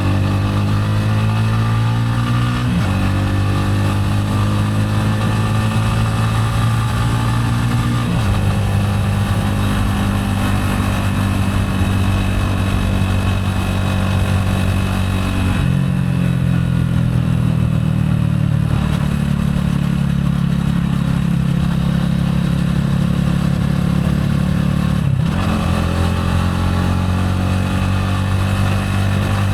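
Gilera AC4 motorcycle engine running while riding, its note holding steady for stretches and then changing pitch abruptly about four times as the rider changes gear.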